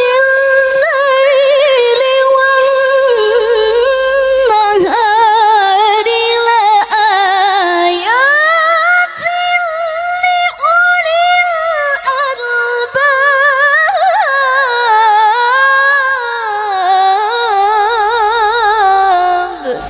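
A woman's voice reciting the Quran in melodic qiroah style, holding long high ornamented phrases with a quick wavering vibrato and pitch glides between notes. There are a few brief catches along the way, and the pitch drops away near the end.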